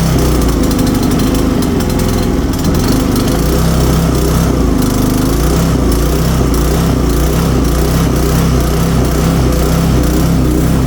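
5 hp Briggs & Stratton single-cylinder engine of an old Dayton 2000-watt generator running steadily, just after starting on the first pull after years unused.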